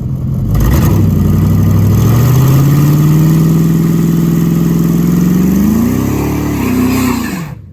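A vehicle engine revving up: its pitch climbs steadily over a few seconds, holds, rises again near the end, then drops and cuts off suddenly.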